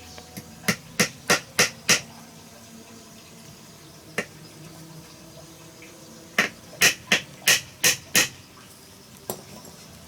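Hammer blows in two quick runs, about three strikes a second, five in the first run and six in the second, with a single knock between them and another near the end.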